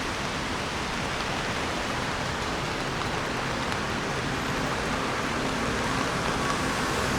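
Steady hiss of rain falling on a city street. From about halfway through, a vehicle engine comes in and slowly grows louder as it approaches.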